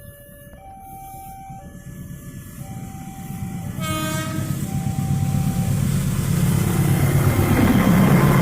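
A level-crossing warning signal sounding steady electronic tones that alternate in pitch, while a KAI CC204 diesel locomotive approaches: a short horn blast about four seconds in, then the engine and wheel rumble growing steadily louder as the train nears.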